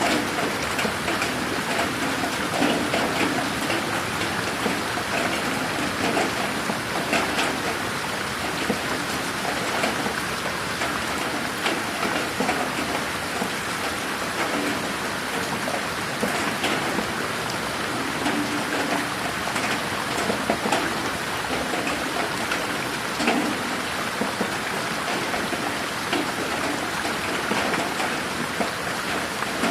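Steady moderate rain falling on a garden, a dense hiss with many individual drops ticking and pattering on nearby surfaces.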